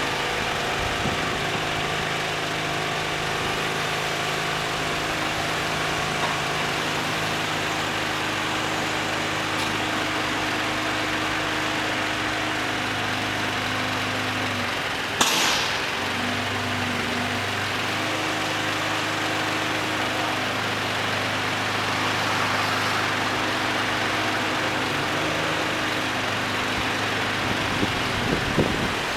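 Heavy truck's diesel engine running steadily at idle. About halfway through there is a short, sharp hiss of air, and the engine note shifts slightly after it.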